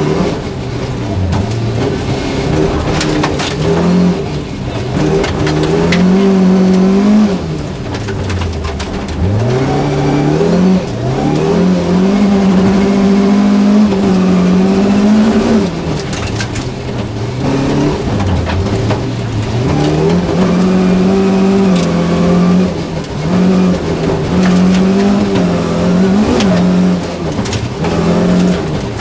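Volvo 240 rally car's engine heard from inside the cabin, run hard on a gravel stage: it revs up, holds, and drops away again and again as the driver lifts for corners and changes up, with third and later fourth gear showing. Sharp ticks of gravel and stones striking the car run through it.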